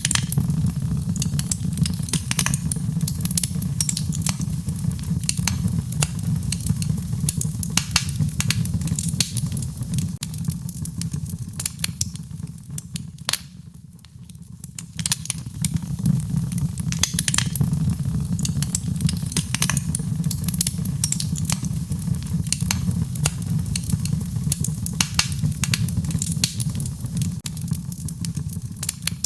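Wood fire crackling, with frequent sharp pops and snaps over a steady low rumble; the popping eases off briefly about halfway through, then picks up again.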